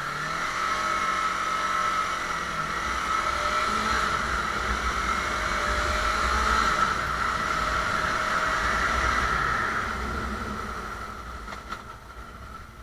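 Motorcycle under way, its engine running with steady road and wind noise, building at the start and dying away after about ten seconds.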